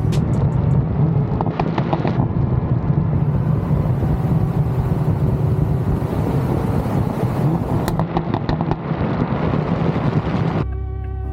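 Toyota Supra's engine and exhaust droning under way, with quick bursts of crackling pops about two seconds in and again near eight seconds. Near the end the engine sound cuts off and music takes over.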